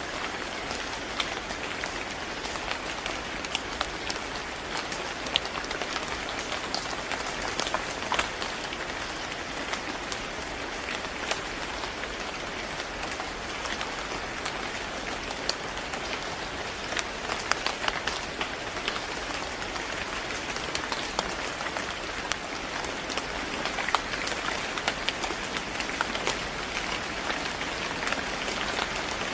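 Steady rain falling on a surface, with many individual drops ticking through a constant hiss.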